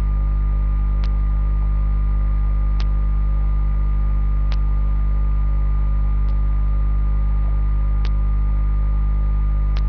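Steady electrical mains hum with a thin high whine, with a faint tick about every second and three-quarters.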